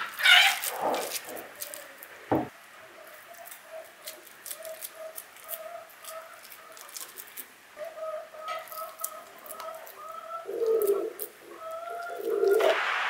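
Hand squelching through a wet walnut stuffing in a glass bowl in the first second, then a single knock. After that a bird calls over and over in short notes, about two a second.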